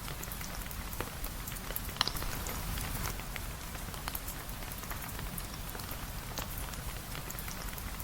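Steady rain falling, heard as an even hiss with many scattered sharp ticks and pops; the loudest pop comes about two seconds in.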